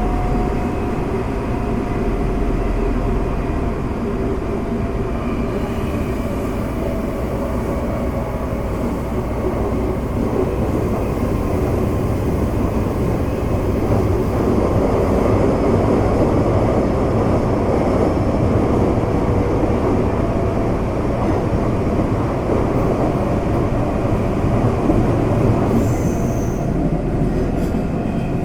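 Interior running sound of a Semboku Rapid Railway 5000 series electric train car at speed: steady wheel-on-rail rumble and running noise, with the air conditioning on. The loudness swells a little about halfway through.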